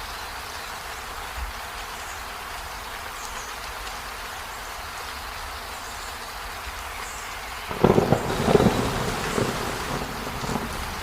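Steady rain falling, with a sudden clap of thunder about eight seconds in that rumbles on and fades over a few seconds.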